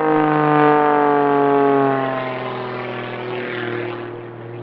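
Highly modified Pitts aerobatic biplane flying past, its piston engine and propeller making a steady drone. The pitch falls as it goes by, and the sound fades after about two seconds.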